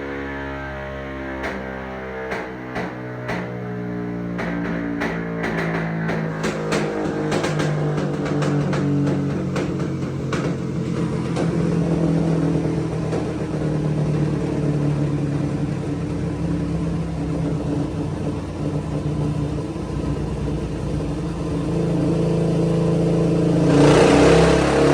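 Background music with guitar layered over a Suzuki DR-Z400 single-cylinder engine running on a dyno. A string of sharp ticks comes through in the first ten seconds, and the engine grows steadily louder, surging near the end.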